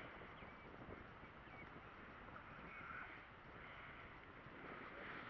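Faint outdoor ambience with a few distant bird calls: short high chirps near the start, then softer calls through the rest.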